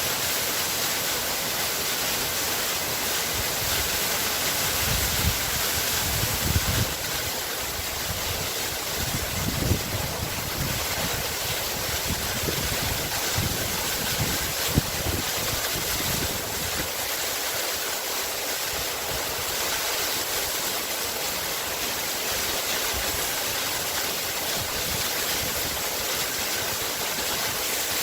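Waterfall: water pouring and rushing steadily, with a few heavier, deeper surges in the first half.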